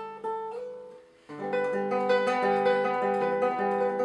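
Acoustic guitar playing a song's introduction: a run of picked notes that dies away about a second in, then, after a short pause, chords ringing out steadily.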